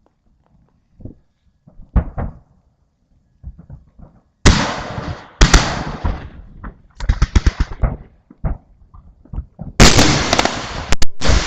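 Fireworks display shells heard close to the launch site. A couple of muffled thumps come first. Then two loud bangs about four and five seconds in, a rapid rattle of crackling a couple of seconds later, and a dense barrage of bangs and sharp cracks near the end.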